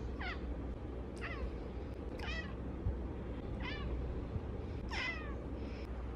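Cat meowing: five short, high calls, each falling in pitch, about a second apart, over a steady low hum.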